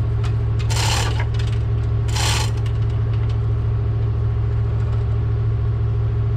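A steady low engine hum under metal clinking and rattling, with two louder bursts of metallic rattle about one second and two and a half seconds in.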